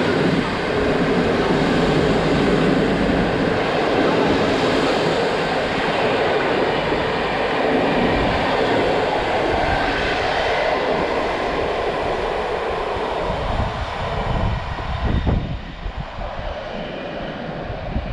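A train running past on the tracks, a loud steady rumble of wheels and wagons that thins out and fades over the last few seconds.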